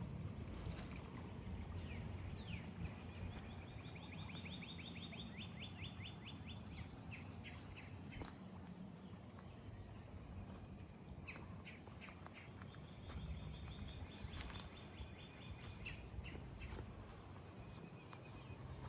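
Outdoor birdsong: a songbird sings a fast trill of evenly repeated notes, once about three seconds in and again near the middle, with shorter chirps between. A low rumble runs underneath and a few sharp clicks cut in.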